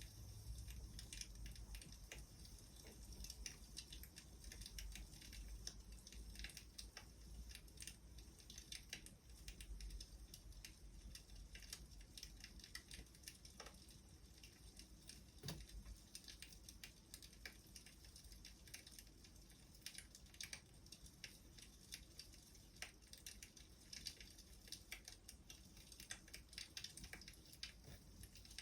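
Faint crackling of a wood fire: many small, irregular snaps and pops from burning firewood.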